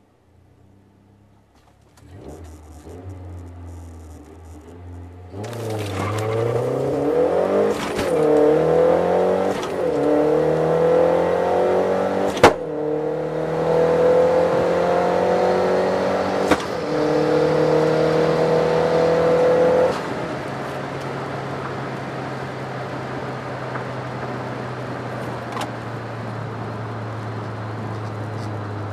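Interior sound of a 2010 Mazdaspeed3's turbocharged 2.3-litre four-cylinder on a full-throttle quarter-mile run. A low hum builds, then the car launches about five seconds in. The engine note climbs through each gear and drops sharply at every upshift, with a click at the shifts. About twenty seconds in the throttle is lifted at the end of the run, and the engine falls to a steady lower hum as the car coasts.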